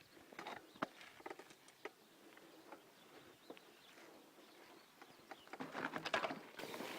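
Faint outdoor rural ambience with scattered short bird chirps and small clicks, and a louder burst of rustling near the end.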